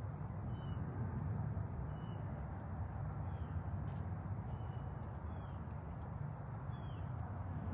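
A bird repeating a short, high, falling chirp about every second and a half, over a steady low rumble.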